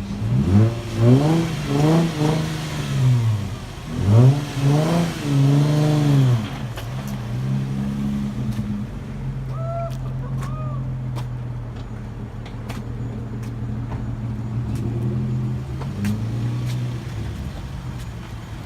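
Car engine revved in a series of short blips and then one longer rev over the first six seconds, then settling into a steady idle.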